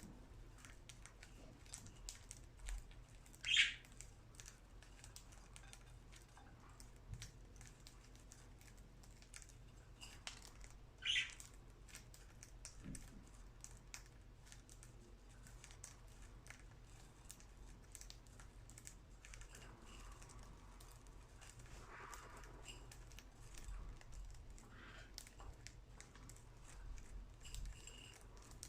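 Budgerigars pecking at millet seed: a patter of small, faint clicks. Two short, sharp chirps stand out, one a few seconds in and one about eleven seconds in, with softer chirping near the end.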